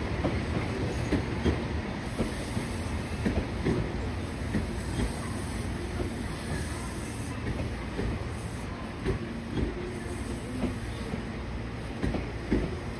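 Meitetsu 2200 series electric train rolling slowly over the station pointwork: a steady low running rumble with irregular clacks as the wheels cross the rail joints and points.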